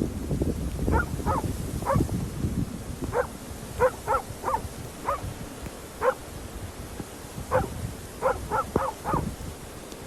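Dog barking repeatedly, short barks in quick clusters of two to four.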